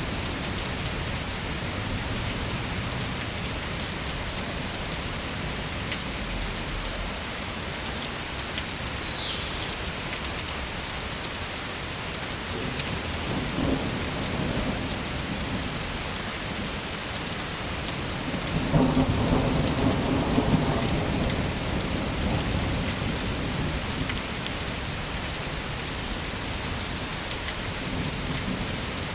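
Steady rain hissing, with a low thunder rumble swelling briefly about halfway through and a longer, louder one about two-thirds of the way in.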